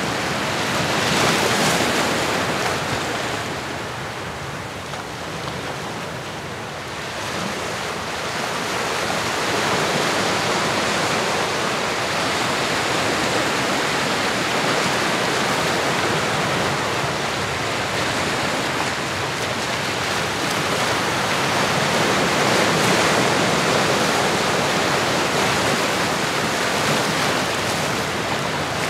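Ocean surf recording: a steady rushing wash of waves that swells and eases over several seconds, with a lull a few seconds in and a fuller surge later on.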